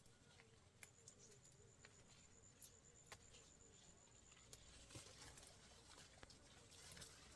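Near silence, with a few faint scattered clicks and a thin, high steady tone in the first half.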